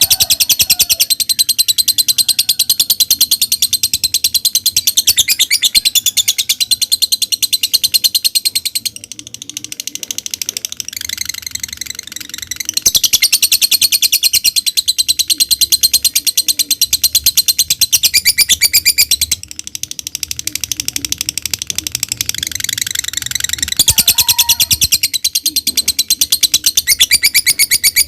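Lovebird giving a long ngekek: a loud, rapid, high-pitched chattering trill held for many seconds at a stretch. It drops softer for a few seconds about nine seconds in and breaks briefly near twenty seconds.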